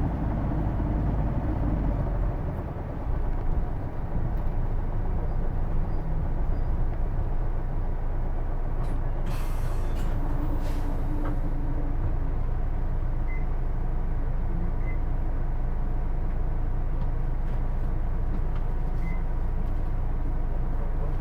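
Interior running sound of a Hino Blue Ribbon II (PJ-KV234L1) city bus: the diesel engine drones steadily under way, with a faint steady whine. About nine seconds in, a short hiss of air from the air brake system.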